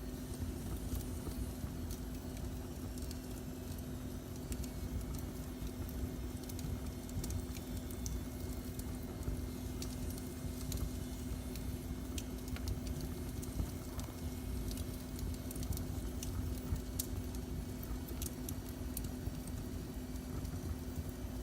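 Wood fire in a fireplace crackling, with irregular small pops and snaps over a steady low rumble and a constant low hum.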